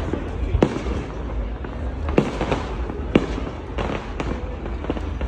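Fireworks display: a continuous crackle of bursting shells with three sharper bangs in the first three seconds or so.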